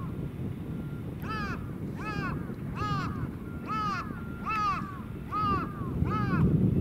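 A bird calling repeatedly, seven arched calls about 0.8 s apart starting about a second in, over a low wind rumble on the microphone.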